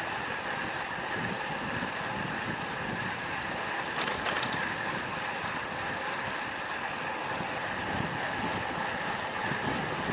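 Wind buffeting an action camera's microphone on a road bike ridden in strong wind, over steady tyre and road noise, with a couple of sharp clicks about four seconds in.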